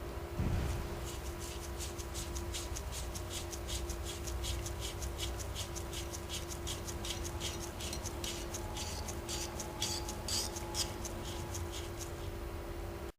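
Quick, even scrubbing strokes on a small part, about four a second, over a steady low hum.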